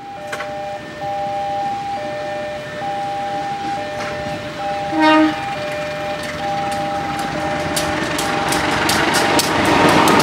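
A passenger train's CC 203 diesel-electric locomotive and coaches approach and pass close by, with rumble and rapid wheel clicks over the rail joints building near the end. A short train horn blast sounds about halfway through. Under it all, two steady warning tones alternate throughout.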